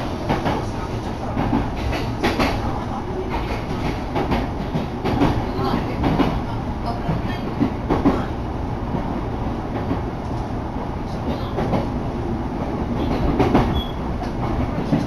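Electric commuter train running, heard from inside the passenger car: a steady rumble of wheels on rails with irregular clicks as the wheels pass over rail joints.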